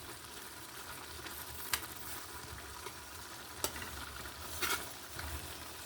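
Pan of omena (silver fish) frying and sizzling steadily, with three short sharp clicks of a utensil against the pan.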